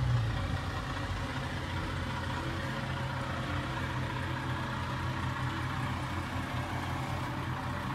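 Dodge Charger Scat Pack's 6.4-litre 392 Hemi V8 running steadily at low revs, a low even hum heard from inside the cabin.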